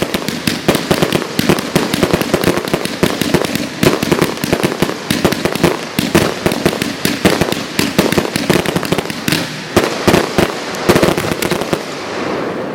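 Fireworks display: a dense, rapid barrage of bangs and crackles, many per second, thinning out near the end.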